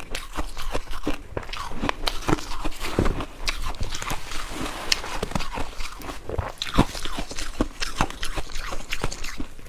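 Ice being bitten and chewed close to the microphone: dense, irregular crunching and cracking, several sharp cracks a second.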